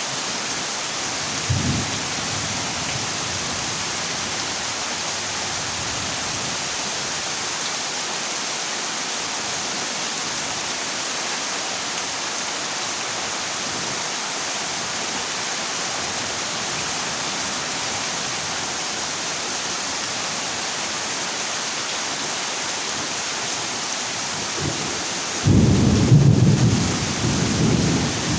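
Heavy rain pouring steadily on a corrugated zinc roof. A short low thunder clap comes about a second and a half in, and a louder rumble of thunder rolls for about three seconds near the end.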